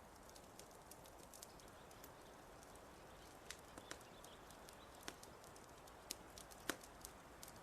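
Wood fire crackling softly: irregular sharp pops and snaps over a low steady hiss, with one louder pop about two-thirds of the way through.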